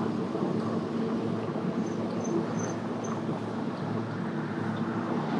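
Steady low mechanical hum with road noise from riding along a street, with four short high chirps a little after two seconds in.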